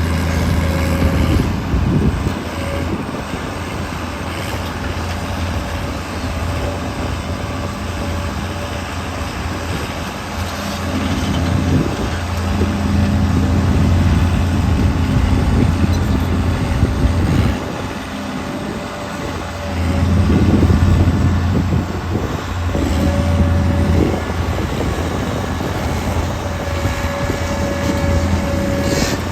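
Case 1080B excavator's diesel engine running, its note swelling and easing several times as the machine is worked, with a steady whine coming and going over it.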